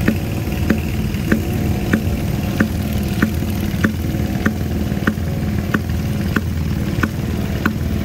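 Small antique stationary gas engine running. A sharp click comes about every 0.6 seconds over a steady low engine drone.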